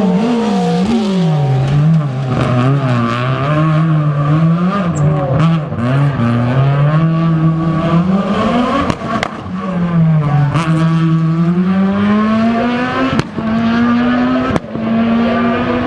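S1600 rally car's high-revving 1.6-litre four-cylinder engine driven hard, its pitch repeatedly rising and falling on the throttle and through gear changes, with a long climb through a gear in the second half. A few sharp cracks are heard after the middle.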